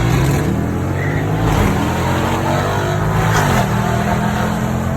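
Car engine running under acceleration, its pitch rising and falling, then holding a steady note near the end.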